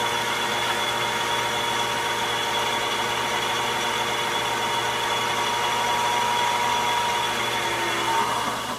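Shop machine's electric motor running steadily with a constant whine, then switched off about eight seconds in, its pitch sliding down as it winds down.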